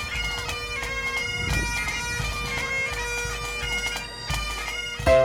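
A bagpipe tune: a steady drone held under a melody of quick changing notes. Right at the end it gives way to piano music.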